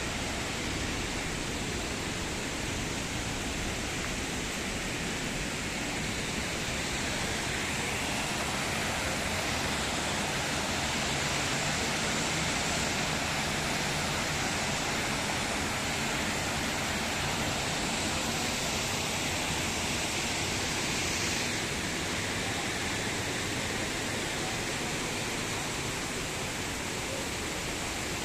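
A steady rushing noise, even and unbroken, whose upper hiss shifts slightly about a third of the way in and again about three-quarters of the way through.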